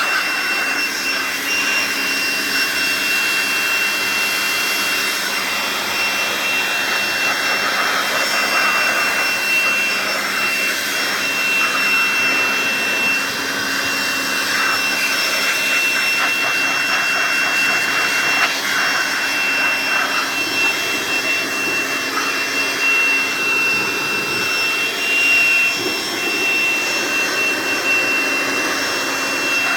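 Electric air blower running continuously, with a steady high whine over the rush of air, as dust is blown out of a refrigerator.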